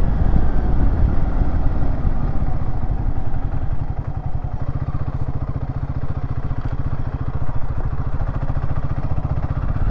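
Royal Enfield Himalayan 450's single-cylinder engine running at low revs while riding, a rapid even low beat. It is louder and rougher for the first couple of seconds, then settles into a steady pulse.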